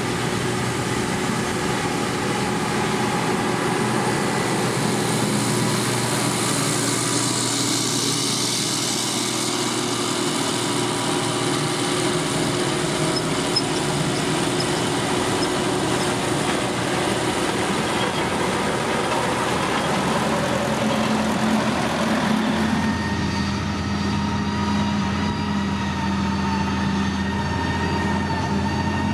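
Heavy road-construction machinery engines running steadily, with a change in engine note about three-quarters of the way through.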